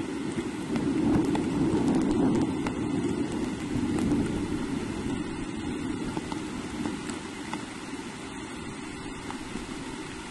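Steady rain falling on the forest and nest, a continuous rushing hiss with faint scattered drop ticks, easing a little toward the end.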